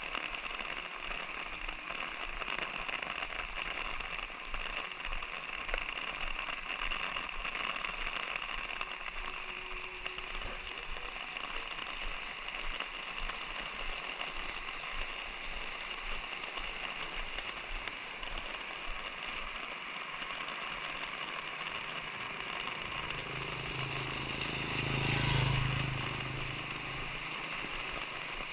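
Light rain falling steadily, a continuous patter. Near the end a motor vehicle passes, swelling and fading over a few seconds.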